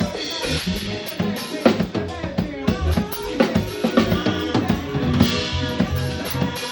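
Live band playing an instrumental passage: a drum kit keeping a steady beat with kick, snare and rimshots under a bass line and held chords.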